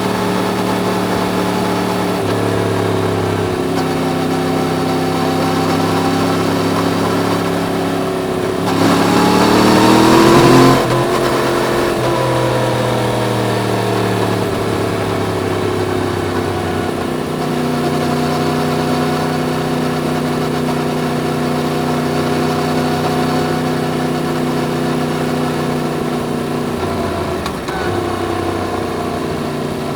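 Yamaha MT-10's crossplane inline-four engine running under way, its pitch stepping as it changes gear. About nine seconds in it revs up hard for about two seconds, the loudest part, then drops sharply at a gear change and settles back to a steady cruise.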